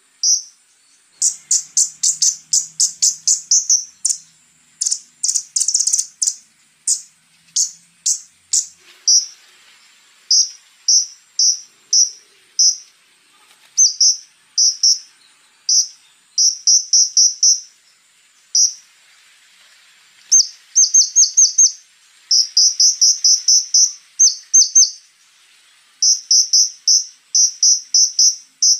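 Konin songbird singing: sharp, high chips fired in fast rolls of several notes each, broken by short pauses, with a faint steady high insect-like whine underneath.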